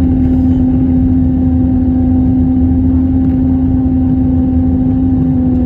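Airbus A321 cabin during the takeoff climb: a continuous rumble from the engines at takeoff power, under a loud, steady low-pitched hum that does not change in pitch. The hum is the unusual noise that appears after liftoff.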